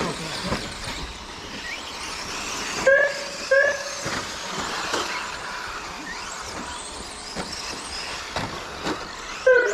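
Whine of the electric motors of several 1:10 RC short course trucks racing round the track, rising and falling in pitch as they accelerate and pass. Two short beeps come about three seconds in.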